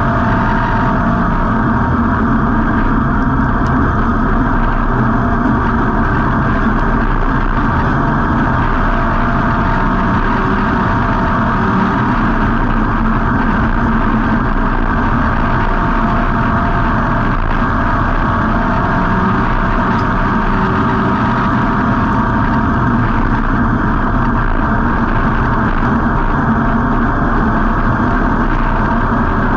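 V8 engine of a dirt-track street stock race car, heard from on board, running loud and steady with little change in pitch.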